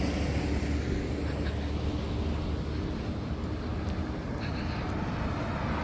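Steady low rumble of road traffic, with no distinct passes or impacts.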